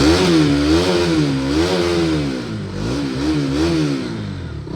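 Motorcycle engine revved up and down several times, its pitch rising and falling in waves about once a second, easing off near the end.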